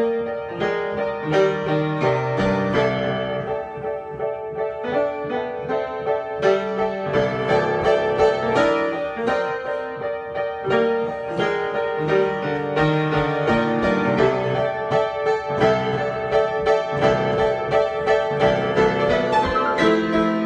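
Solo piano improvisation, played continuously. A middle-range note keeps sounding again and again while lower notes change beneath it, with chords and melody notes struck throughout.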